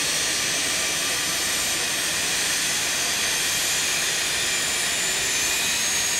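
Avro RJ85's Honeywell LF507 turbofan engines running at startup: a steady rush with several thin, high-pitched whining tones, one of them edging up in pitch near the end.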